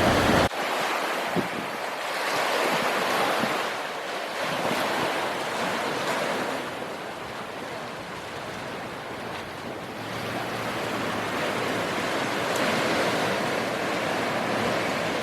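Ocean surf breaking and washing on a beach, a steady rushing that swells and eases over several seconds.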